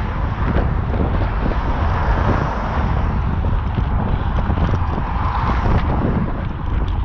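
Strong wind buffeting the microphone during a bicycle ride: a loud, steady rumble that rises and falls with the gusts.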